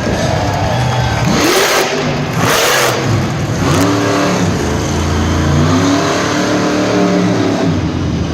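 Monster truck engine revving hard, its pitch rising and falling again and again, with two short loud bursts of noise about a second and a half and two and a half seconds in.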